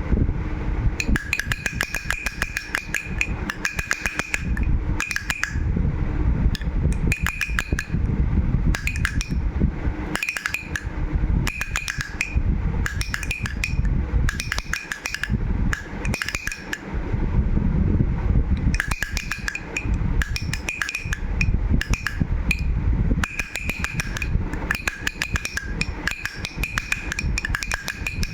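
A toy rattle shaken in short bursts every second or two, its clattering clicks carrying a bright ringing tone, over a steady low rumble.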